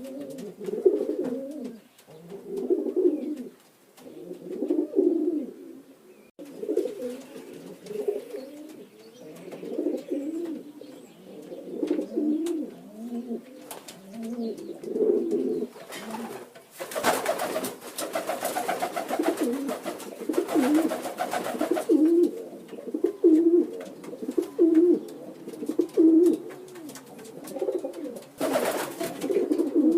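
Birds calling over and over with low calls, evenly spaced about every second and a half in the later part. A hiss-like noise joins them for a few seconds past the middle and again near the end.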